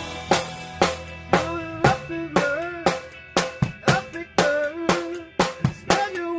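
A drum kit playing a steady rock beat, with a sharp hit about every half second, over guitar notes that bend up and down and a sustained low bass line.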